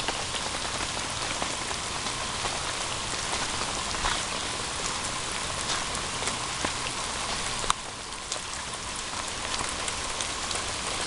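Heavy rain falling steadily, with scattered ticks of individual drops. A sharp tap a little past two-thirds of the way through, after which the rain is slightly quieter.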